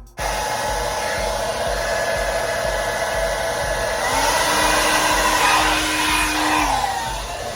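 KISS hair dryer blowing steadily. It cuts in abruptly, a humming tone joins about four seconds in and drops away near the end, and the sound fades out at the close.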